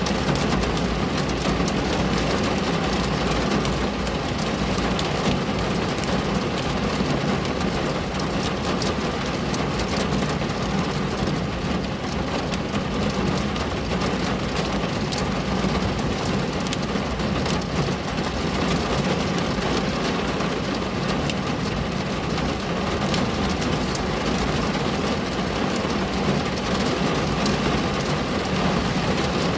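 Steady rain pattering on a window pane, with many small, sharp drop ticks, over a steady low rumble.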